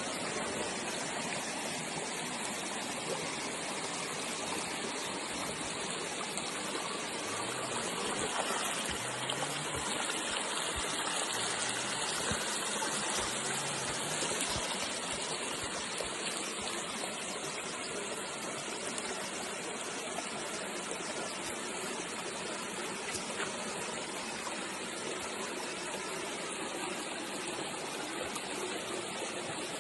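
Steady rushing of flowing stream water, running evenly throughout.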